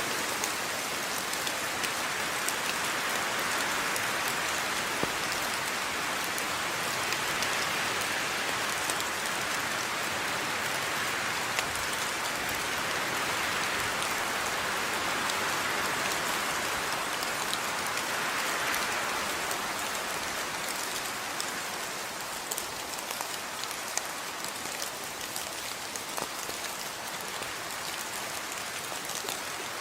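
Steady rain falling, with many small drop ticks spattering on a surface over a constant hiss; it eases slightly about two-thirds of the way through.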